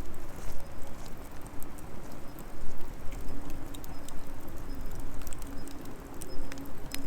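Wood fire crackling with scattered sharp pops, while a dove coos over it in a low, repeated coo from about three seconds in.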